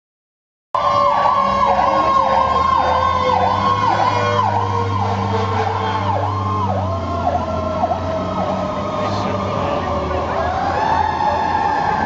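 Emergency vehicle sirens, starting abruptly just under a second in: one yelps rapidly up and down about twice a second while another holds a steady tone that slowly falls in pitch, then rises again near the end, over the low hum of a heavy engine.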